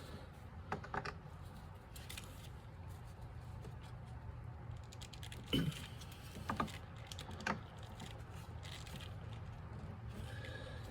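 A few scattered light clicks and knocks of hands working on the snowmobile's fuel system, over a steady low hum.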